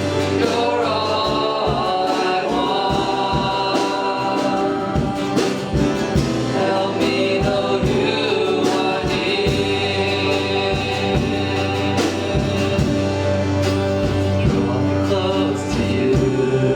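Congregational worship singing with a live band, voices carrying a melody over instruments with a steady beat.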